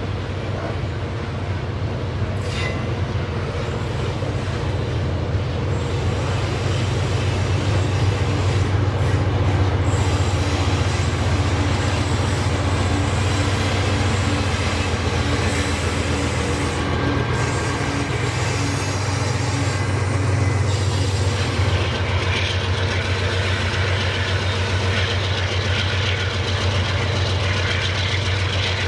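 Long freight train of grain hopper wagons rolling past: a steady low rumble of steel wheels on the rails with some clatter. It grows somewhat louder over the first ten seconds, then holds steady.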